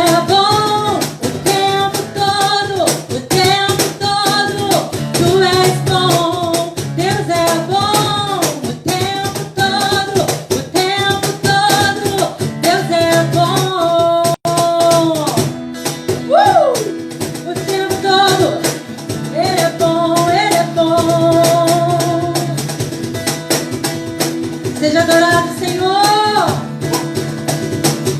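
A worship song performed live: voices singing over guitar accompaniment. The singing drops out for several seconds in the middle, leaving the instruments, and comes back near the end.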